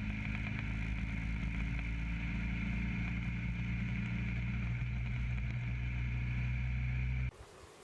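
Motorcycle engine running at a steady speed with road and wind noise, cutting off abruptly near the end.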